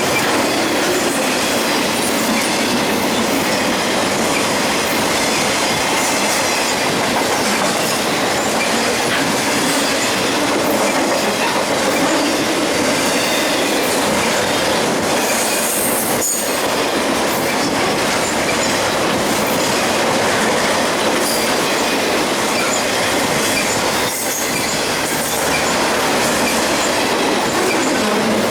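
BNSF double-stack container train rolling past at speed: a steady loud rush of steel wheels on rail, with some clicks from the wheels over the track.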